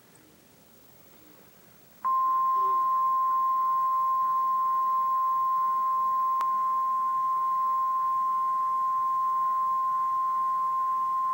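Emergency Alert System attention tone: a single steady tone just above 1 kHz, the National Weather Service's 1050 Hz alert tone, announcing a blizzard warning. It starts suddenly about two seconds in after a brief silence and holds without change.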